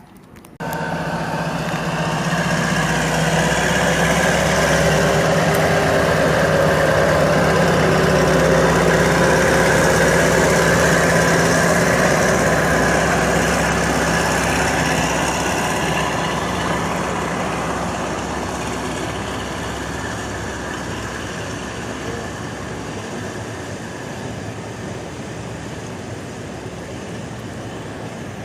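Diesel train engine running steadily. It starts abruptly, grows louder over the first several seconds, then slowly fades.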